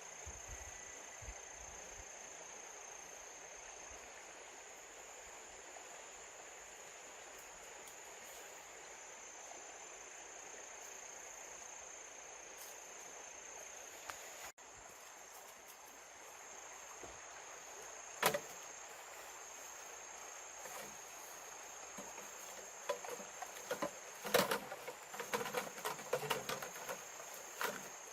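Insects keeping up a steady high-pitched trill. One sharp knock comes about two-thirds of the way in, followed near the end by a run of irregular clicks and knocks.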